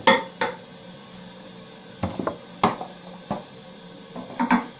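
A series of sharp clinks and knocks of hard objects, about seven in under five seconds, the loudest right at the start.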